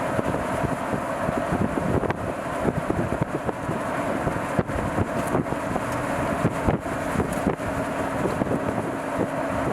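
A vehicle driving, with steady road noise, wind buffeting the microphone, and scattered small crackles and knocks.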